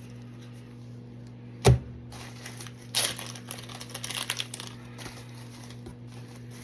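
A sharp knock just under two seconds in, then a couple of seconds of crinkling plastic packaging as trading cards are handled, over a steady low hum.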